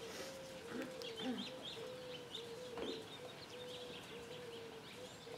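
Faint bird calls: short, high chirps scattered throughout, over a lower call repeated in short pieces about twice a second.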